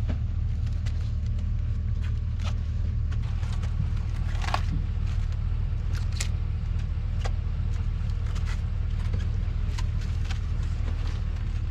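Steady low rumble of a vehicle running, with scattered light clicks and rattles.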